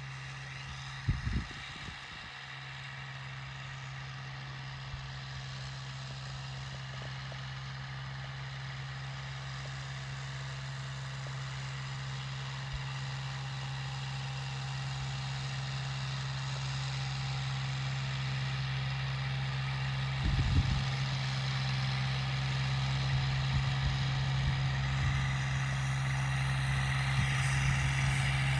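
An engine running at a steady idle, one unchanging hum that grows gradually louder. A couple of brief thumps sound over it, one about a second in and one near twenty seconds in.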